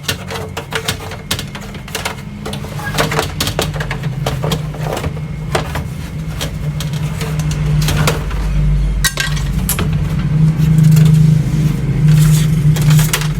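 A steady low hum that grows louder toward the end, under scattered clicks and knocks of something being handled.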